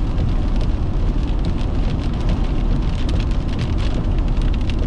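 Heavy rain pelting a moving car, with many sharp drop ticks over a steady low rumble of road and engine noise.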